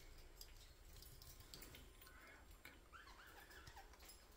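Near silence with a few faint budgerigar chirps in the second half.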